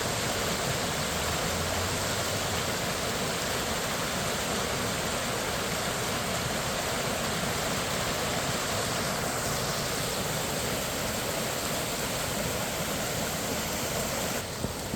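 Water of Minnehaha Creek rushing steadily in a dense, even hiss, dropping a little quieter just before the end.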